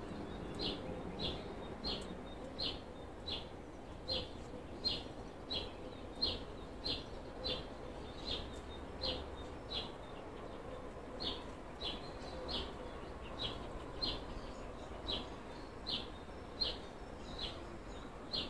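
A small bird chirping one short, high note over and over at an even pace, about three chirps every two seconds.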